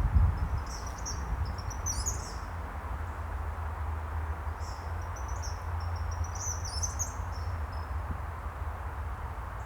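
Eastern kingbird giving high, sputtering, stuttering chatter calls in two bouts of about two to three seconds each, over a steady low rumble.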